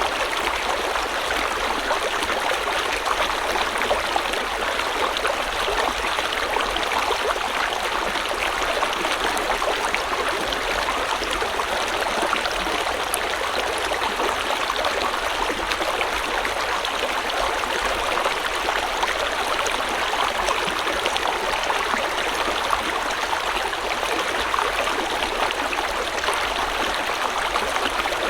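River water flowing over rocks: a steady rushing and burbling, even in level throughout.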